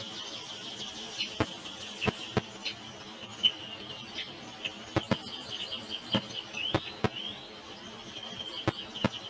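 Small birds chirping continuously in a high pitch, with short notes and a couple of rising squeaks. Sharp clicks or taps fall irregularly about ten times throughout.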